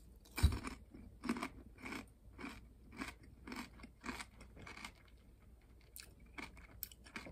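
A person chewing a mouthful of crispy fried chicken-skin cracklings. It starts with a crunchy bite about half a second in, then steady crunching chews about two a second that grow fainter and sparser toward the end.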